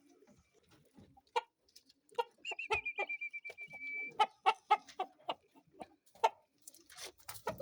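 Kienyeji chickens clucking in a quick series of short calls. About a third of the way in, one long, steady, high note sounds over them.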